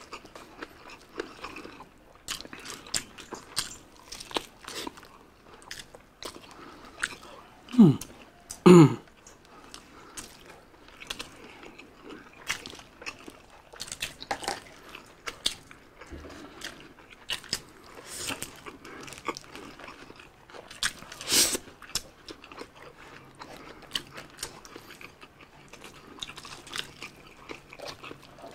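Close-up eating sounds: chewing and biting on biryani and grilled chicken eaten by hand, with many small wet mouth clicks throughout. About eight seconds in come two short, loud sounds falling in pitch, and a louder sharp sound about 21 seconds in.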